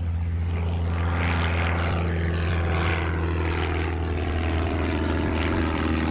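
Light propeller airplane's piston engine running steadily: a low, even drone with a rushing hiss above it that swells and fades a few times.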